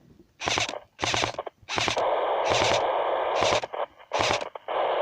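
Two-way radio (walkie-talkie) transmission: crackle and band-limited hissing static that cut in and out abruptly several times, with a few short loud bursts between them.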